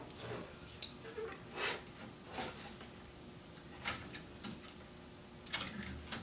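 Scattered light clicks and rustles of small hand tools and parts being handled, a few soft knocks spaced about a second apart.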